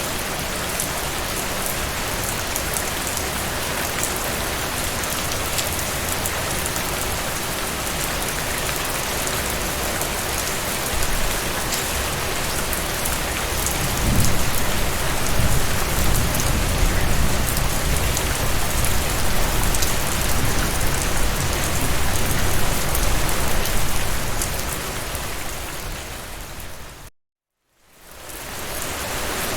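Steady rain falling, an even hiss with scattered drop ticks. About halfway through a low rumble swells in and lasts some ten seconds; near the end the sound fades out to a moment of silence and fades back in, where the recording is looped or spliced.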